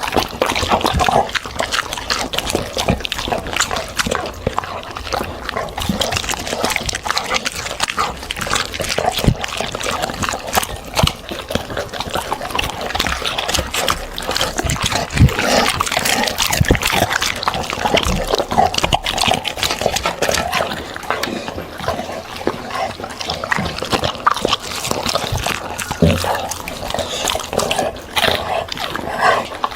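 A dog eating vegetarian food, chewing and smacking in a constant run of quick clicks.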